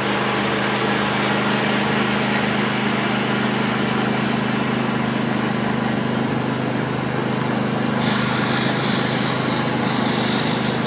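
Hot-water pressure washer running steadily: an engine hum under the hiss of a surface cleaner spraying concrete. The hiss grows louder about eight seconds in.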